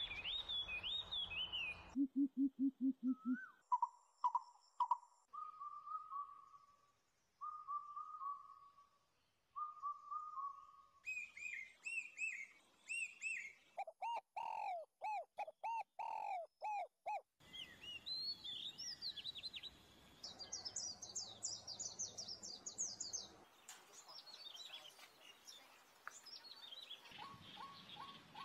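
A series of different bird calls and songs: a short fast run of low pulsed notes, then repeated clear whistles, then quick high chirps and trills. Each kind of call starts and stops abruptly every few seconds.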